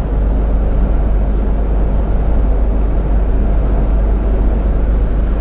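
Steady low rumble of a truck's engine and road noise, heard from inside the cab, with no distinct knocks or changes.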